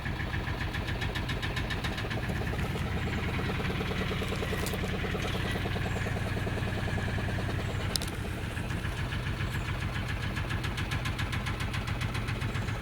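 A motorboat's engine running steadily with a fast, even putter.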